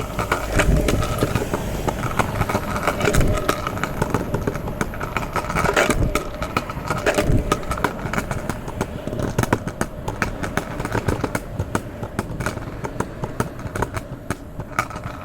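Small hard wheels rolling over wet street pavement, with a steady rumble and frequent short clicks and clacks, more of them near the end.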